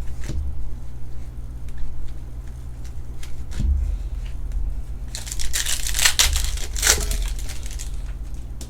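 Foil trading-card pack wrappers being torn open and crinkled, with scattered crackles and then a louder stretch of crinkling from about five to seven seconds in.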